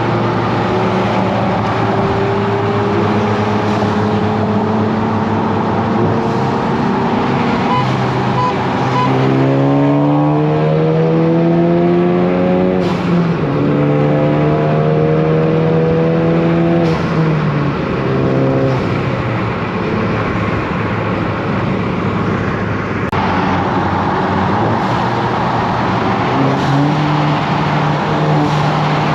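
Car engine and exhaust under way, the note holding steady, then climbing about nine seconds in and dropping at a gear change. It holds again, falls off a few seconds later, and climbs once more near the end.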